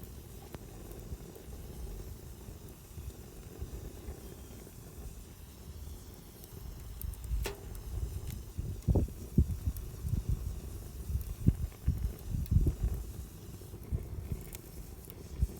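Wood campfire burning, with faint scattered crackles and one sharp pop about seven seconds in, over a steady low rumble. A series of low thuds comes in the second half.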